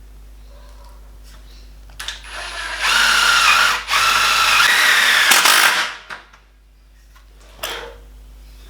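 Power drill driving a self-drilling screw into aluminium channel and tube. The motor whine starts about two seconds in, runs in two goes with a brief break between, and stops; a short knock follows near the end.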